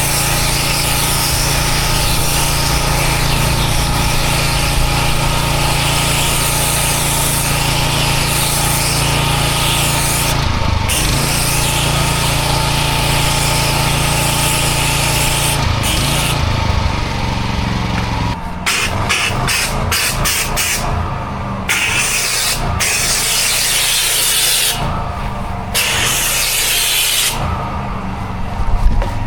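A pressure-washing engine and pump run steadily under a loud hiss of spraying. In the second half the spray cuts off and comes back again and again in short bursts, while the engine keeps running.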